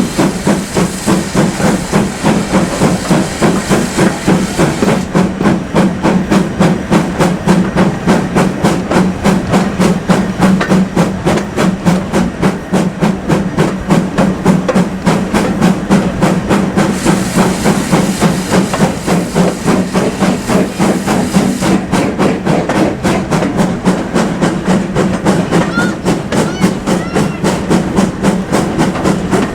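GWR Manor class steam locomotive working hard, its exhaust beating in a fast, even rhythm over a steady low rumble of the train. High steam hiss rises for a few seconds near the start and again about two-thirds of the way through.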